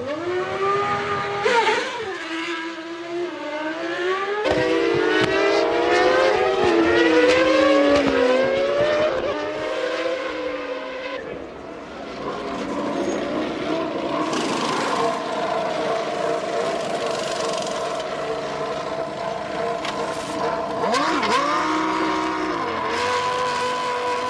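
Formula One racing cars' engines running at high revs: several cars pass in quick succession, their engine notes sweeping down in pitch as they go by, then a long steady high engine note, with quick gear changes near the end.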